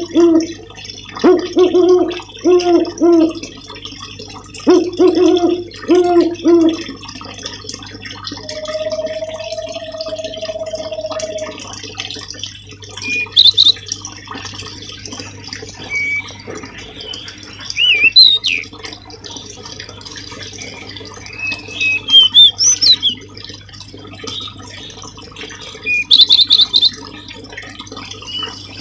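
Songbird calls from a bird 'masteran' recording. Low, repeated calls come in short groups at first, then a long steady whistle, then sharp high chirps and twisting whistled trills in the second half, over a steady low hum.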